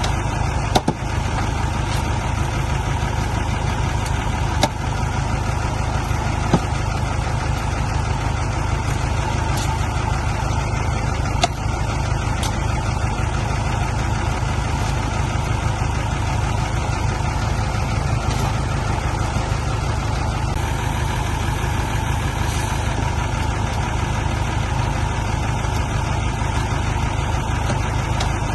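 Heavy diesel engine running steadily at a low, even note, with a few short sharp knocks now and then.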